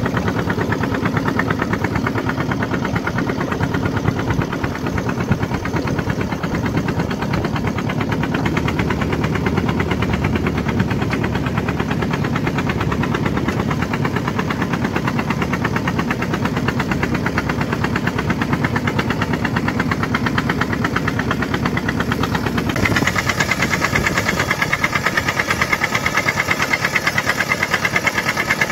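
Homemade tractor's engine running steadily with a rapid, even pulsing. About two-thirds of the way through the sound changes abruptly to a brighter, higher tone with less low rumble.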